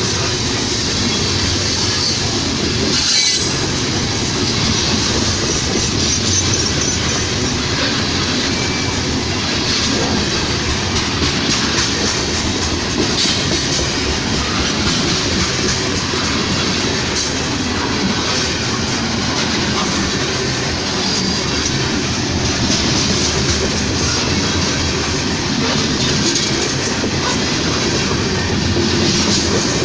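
Freight train cars rolling past, a steady, continuous sound of steel wheels on rail.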